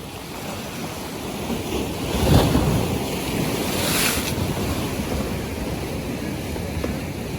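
North Sea waves breaking, with one wave surging about two seconds in and a hissing wash swelling around four seconds. Wind rumbles on the microphone underneath.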